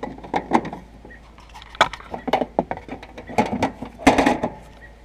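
Scattered knocks, clicks and clinks of parts being handled and refitted on a lawn tractor's engine after an oil check, with the loudest cluster about four seconds in.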